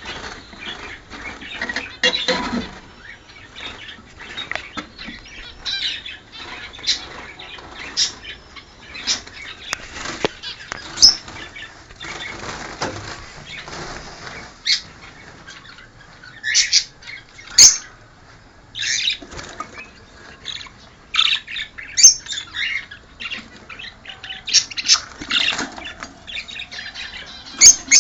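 Caged pet birds, cockatiels and Fischer's lovebirds, giving many short, sharp chirps at irregular intervals, mixed with wing flapping and scuffling.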